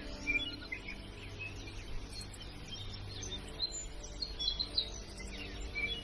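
Many small birds chirping over soft background music made of long held low notes.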